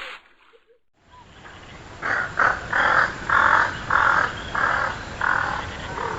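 A bird giving a series of about eight harsh, caw-like calls, roughly two a second, starting about two seconds in and fading toward the end, over outdoor background noise.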